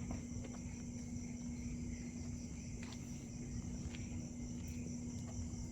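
Quiet outdoor night ambience: insects trilling steadily at a high pitch over a low steady hum, with a few faint clicks.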